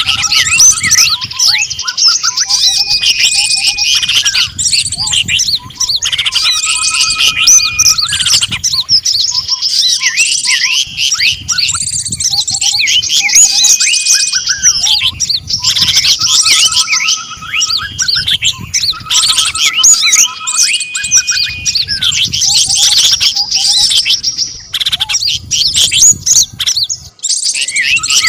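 Bird-trapping lure recording of small songbirds: a dense chorus of quick chirps, twitters and trills, with short whistled call phrases that come back every few seconds.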